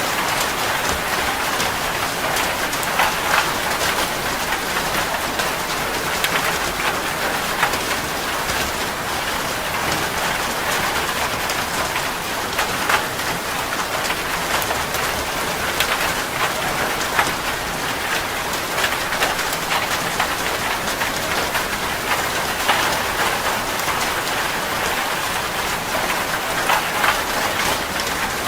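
Heavy rain falling steadily on a metal roof, with countless separate drop hits pattering through the even wash of sound.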